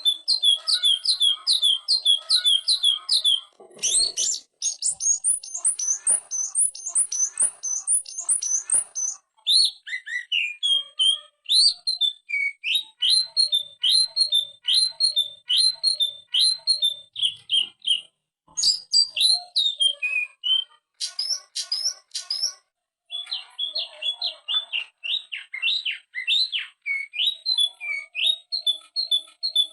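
Greater green leafbird (cucak ijo) singing a long, fast run of repeated down-slurred whistled notes, several a second, in phrases broken by short pauses. This is the rapid rattling 'ngetrok' style of song.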